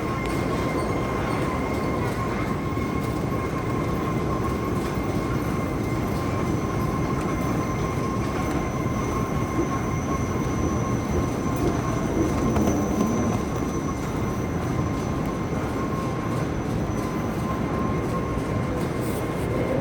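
Airport moving walkway (travelator) running: a steady mechanical rumble with a thin, constant high whine over it.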